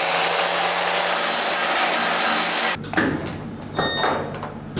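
A power tool running at full speed with a loud, even hiss, cutting off abruptly about three seconds in, followed by quieter workshop clatter.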